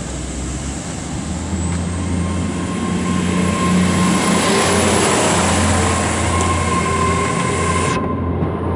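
Great Western Railway Class 800 intercity train accelerating away from the platform, its carriages passing close by with a steady low drone and wheel-on-rail noise that grows louder. A thin high whine climbs in pitch over the first few seconds as it gathers speed.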